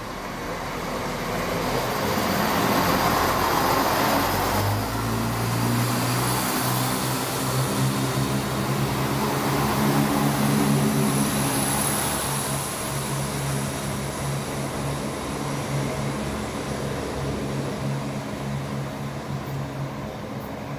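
Southern Class 171 Turbostar diesel multiple unit running through the station: a rush of wheels on rail building as it nears, then the steady drone of its underfloor diesel engines as the carriages pass, slowly fading near the end.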